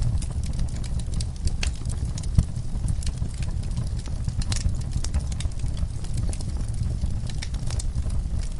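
Wood fire crackling, with irregular sharp pops over a low steady rumble, mixed with the sounds of horses shifting in a stall.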